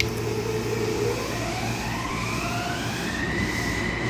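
Electric train heard from inside the carriage, a steady rumble under a whine from the traction motors that climbs in pitch from about a second in and levels off near the end, as the train accelerates.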